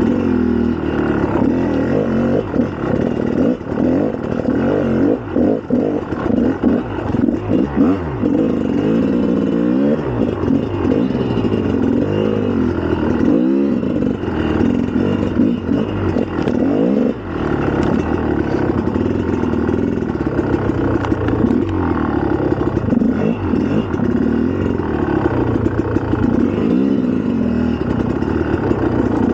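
2004 GasGas EC300's single-cylinder two-stroke engine being ridden, the revs rising and falling over and over as the throttle is worked, then holding steadier from about halfway on.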